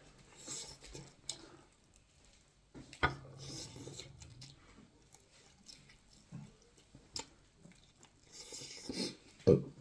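A person chewing food close to the microphone, with irregular short clicks and soft wet bursts of mouth sounds.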